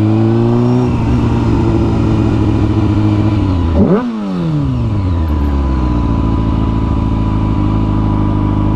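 Small motorcycle engine running under way, with a quick rev blip about four seconds in, after which the engine speed falls and settles at a steady lower pitch.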